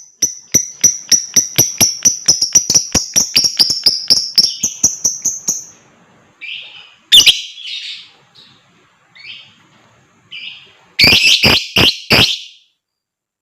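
Lovebird ngekek: a long trill of rapid, sharp chirps that speeds up over about five seconds. Then come scattered chirps, with a loud one about seven seconds in, and a final burst of several harsh loud calls near the end.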